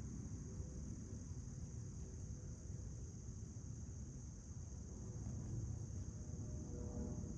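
A steady, unbroken insect chorus, crickets or similar, over a low outdoor rumble.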